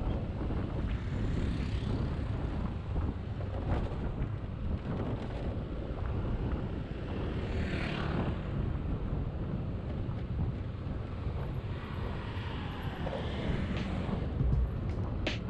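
Motorcycle riding: a steady engine and road rumble with wind on the microphone, and a passing whoosh about halfway through.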